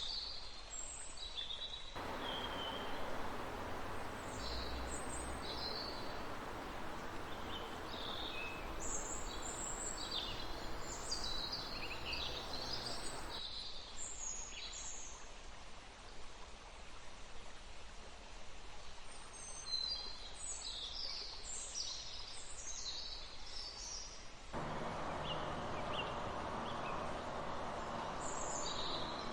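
Forest songbirds chirping, many short high calls one after another, over the steady rush of a river. The water noise cuts in abruptly about two seconds in, drops out near the middle, and returns near the end.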